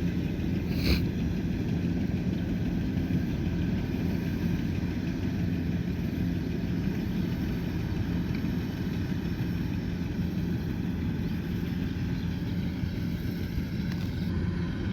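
Kubota combine harvester's diesel engine running steadily at working speed, with one brief sharp click about a second in.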